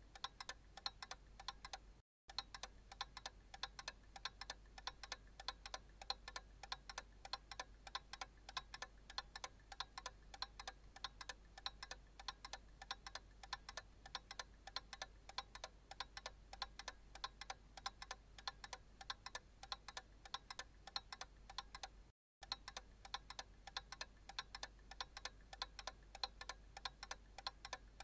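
Analog clock ticking in a steady, even run of light ticks. The sound cuts out for an instant twice, about two seconds in and again near the end.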